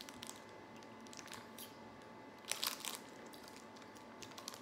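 Faint chewing of a chewy peach candy, with a few short crunching clicks, the loudest cluster about two and a half seconds in.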